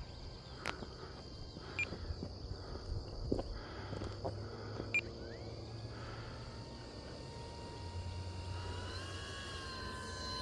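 Electric motor and propeller of an FMS Cessna 182 1500mm RC plane whining faintly on its landing approach. The whine comes in about six seconds in and rises a little in pitch near the end.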